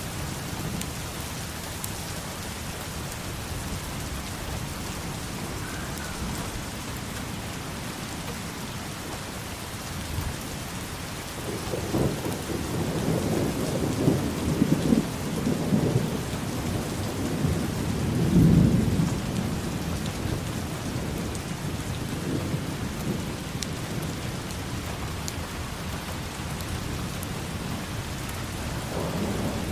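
Steady rain falling, with a long roll of thunder that swells up less than halfway through, crackles for several seconds and is loudest near its end before dying back into the rain.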